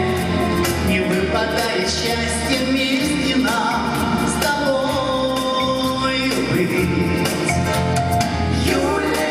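A live pop band playing a 1970s–80s style song, with singing and held melodic notes over a bass line and a steady drum beat.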